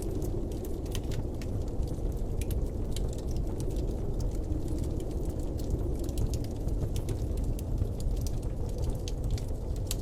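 Steady, low blizzard wind rushing, with faint scattered ticks and crackles over it.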